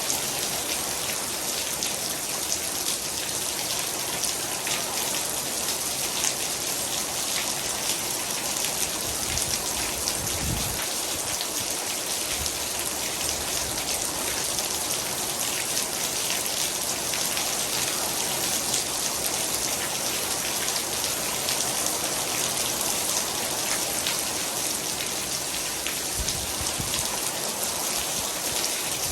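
Heavy rain falling steadily, a dense patter of drops striking a hard surface, with a brief low rumble twice.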